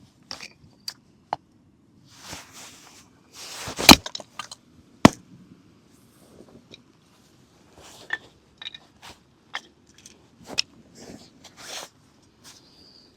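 Objects being handled: a string of small clicks, knocks and brief scrapes, with one sharp knock about four seconds in.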